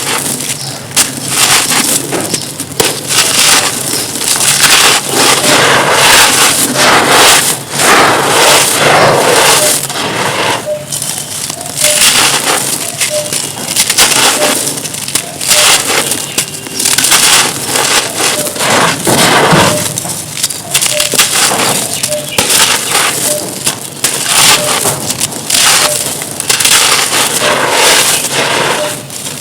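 Dry, dusty crumbly stone-like material being crushed and crumbled, a continuous dense run of crunches and crackles.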